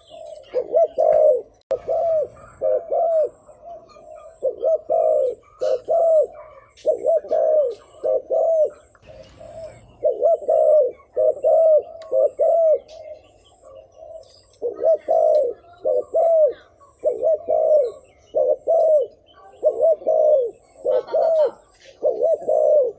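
Spotted dove cooing: rapid runs of coos, each note arching up and down in pitch, repeated over and over with a brief break about halfway through. It is the quick 'thúc gù' coo that bird keepers use as a lure call to draw wild doves.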